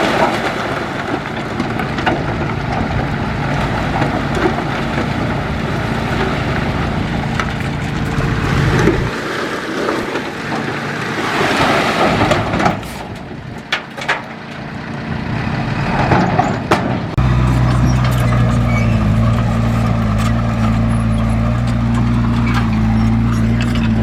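Heavy earthmoving machinery engines running steadily, with a few sharp clanks about halfway through; the engine note changes abruptly twice, as between separate shots.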